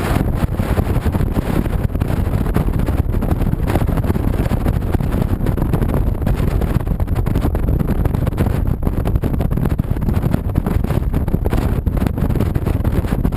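Steady wind noise on the camera microphone of a moving 2007 Honda VTX 1300C cruiser motorcycle, over the low steady rumble of its V-twin engine.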